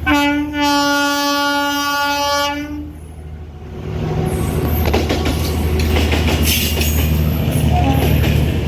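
Indian Railways electric locomotive sounding one long, steady horn blast of about three seconds. The train then passes at speed, with loud rushing and rapid wheel clatter over the rail joints.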